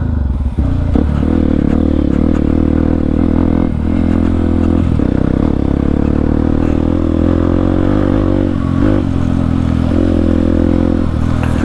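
Motorcycle with an aftermarket full-system exhaust, its dB killer removed, running at a steady speed with a loud, even engine note that barely changes pitch.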